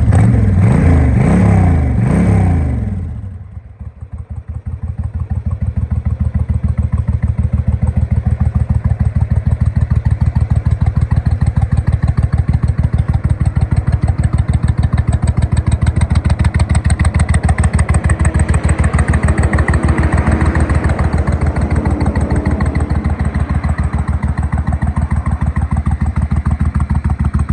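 2000 Suzuki Intruder 1500's V-twin engine: its revs fall back over the first few seconds, then it idles with a steady, even beat.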